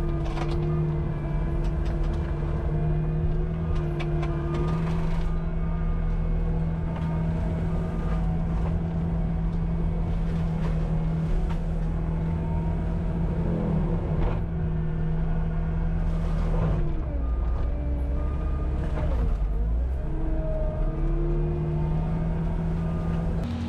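Cat 259D compact track loader's diesel engine running hard at steady high revs, its pitch dipping briefly a couple of times partway through.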